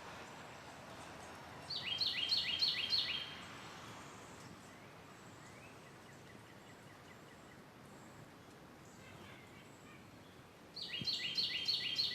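A songbird sings two short phrases, each a quick run of about five identical high, downward-sweeping chirps, the phrases about nine seconds apart, over a faint steady background hiss.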